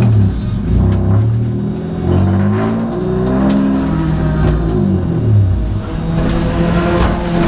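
2002 Nissan Maxima race car's 3.5-litre V6 accelerating hard through the gears. The engine note climbs, drops at each upshift, and does this several times before settling at a steady pitch about six seconds in.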